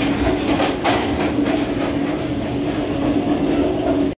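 Passenger train running at speed, heard from aboard: a steady rumble of wheels on rails under a steady drone, with a few knocks about a second in.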